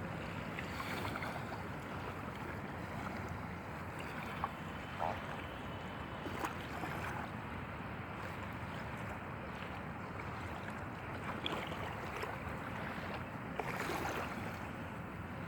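Steady wash of open water and wind buffeting the microphone, with a few brief faint knocks or splashes.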